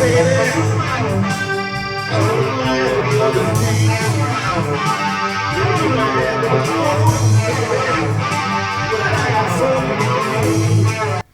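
Rock track with electric guitar, bass and a sung vocal playing back through a simple octaver effect preview. It stops abruptly near the end.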